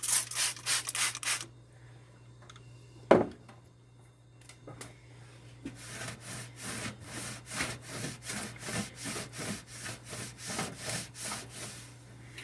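Cloth rag scrubbing the top of a microwave back and forth, in rhythmic strokes about two to three a second, with a quieter pause and a single sharp knock about three seconds in.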